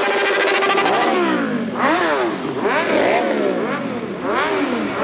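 Motorcycle engine held at a steady idle, then revved in a quick series of throttle blips starting about a second in, the pitch rising and falling about six times.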